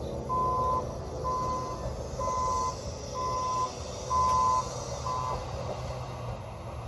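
A vehicle's backup alarm beeping about once a second, six beeps with the last one cut short, over the low rumble of an engine running.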